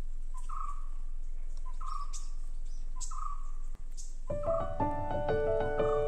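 A bird calling over and over, a short note followed by a longer one, about once every second and a quarter, with a few sharp high chirps among them. Piano music comes in over it about four seconds in.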